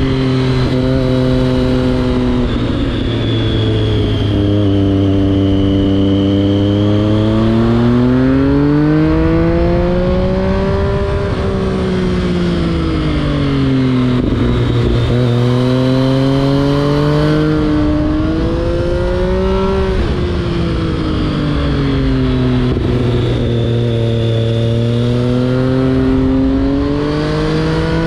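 2011 Triumph Street Triple 675's inline three-cylinder engine through an SC Project exhaust, heard from onboard while riding. The engine note climbs and falls again and again as the bike accelerates and rolls off, with a steady rush of noise underneath.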